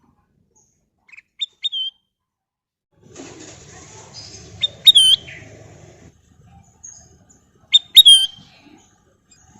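A kutilang emas bulbul calling in short, sharp, whistled notes that bend downward. They come in brief clusters about a second and a half in, around five seconds and around eight seconds, with a faint rustling between three and six seconds.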